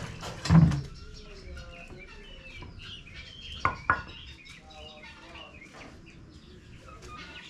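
Chickens clucking and chirping. About half a second in comes a heavy thump, and near four seconds two sharp knocks follow close together.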